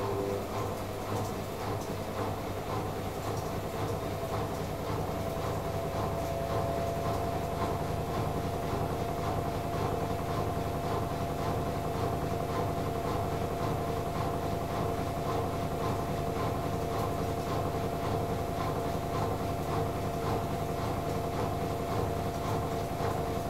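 AEG Lavamat L88489FL front-loading washing machine spinning its drum in the intermittent spin before the last rinse of the duvet programme: a steady motor whine over a low rumble, growing a little louder and settling about six seconds in.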